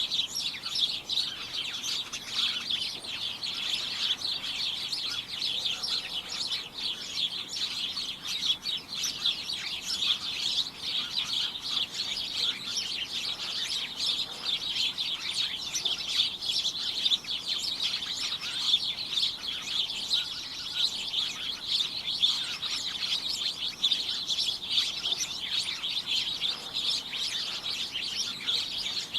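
Many small birds chirping constantly, a dense, cacophonous chorus of short, high, overlapping chirps.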